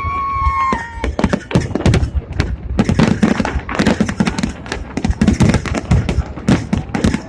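Fireworks going off in a rapid, irregular string of bangs. A steady high tone runs under the first bangs and stops about a second in.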